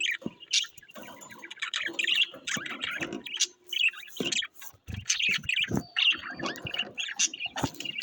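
Small cage birds chirping and twittering continuously, several voices overlapping, with a few short soft knocks in between.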